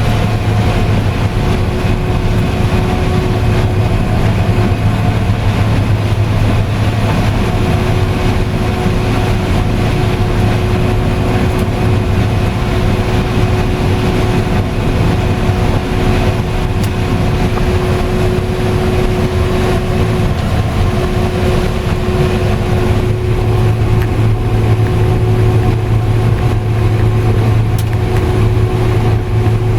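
Combine harvester running steadily while harvesting corn, heard from inside the cab: a constant machinery drone with several steady hums. The low hum grows stronger about two-thirds of the way through.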